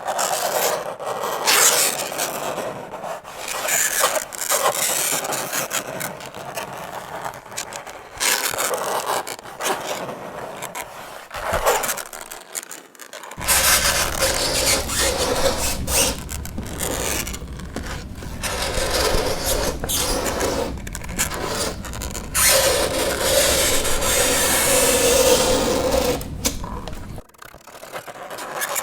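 Fingernails scraping across a chalkboard in repeated strokes of uneven length, some with a shrill pitched squeal. A low hum sits underneath through the middle of the stretch.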